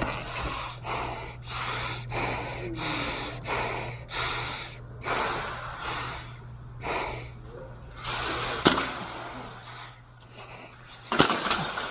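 Heavy breathing close to the microphone, a breath roughly every half second to second, fading in the second half. There is one sharp snap about two-thirds of the way through and a short cluster of sharp clicks near the end.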